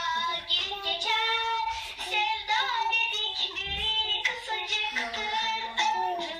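A young child singing a song in a high voice, in short phrases of held, wavering notes.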